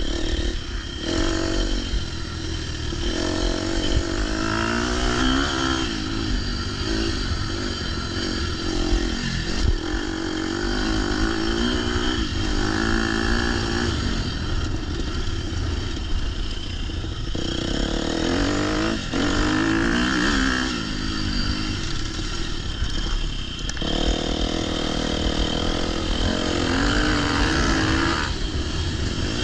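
Motocross bike engine revving up and down over and over as it is ridden around the track, the pitch climbing and dropping with the throttle, over a steady low rumble of wind on the microphone.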